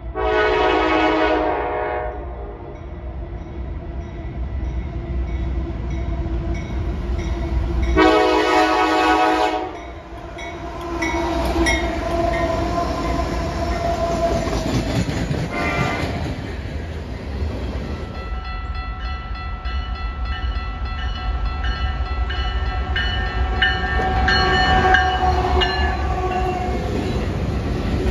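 Freight locomotive air horn sounding two long chords, one at the start and one about eight seconds in, while the train rolls by with a steady rumble and clatter of freight cars on the rails.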